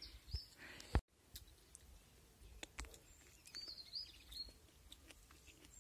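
Quiet outdoor ambience with a small bird chirping a short run of high, quick notes around the middle, and scattered faint clicks, one sharper click about a second in.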